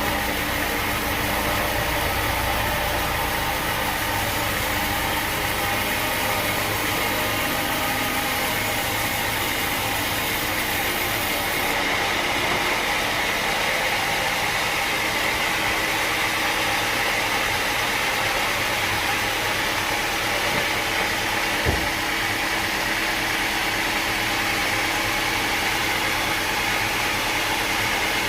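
Sawmill machinery running steadily, a mechanical hum with a hissing whine, with a single short knock a little past the two-thirds point.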